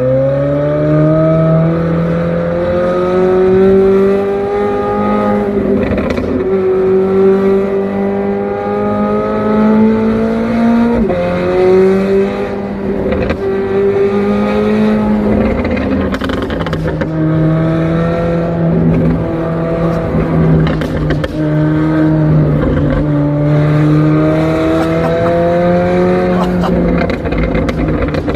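McLaren 765LT twin-turbo V8 pulling hard through the gears, its pitch climbing steadily and dropping at upshifts about eleven seconds in, about sixteen seconds in, and near the end.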